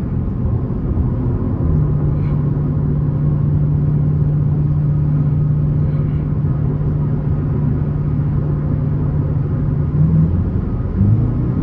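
Dodge Challenger R/T's Hemi V8 running at a steady cruise with road rumble, heard from inside the car. A low engine drone holds one pitch from about two seconds in until near the end.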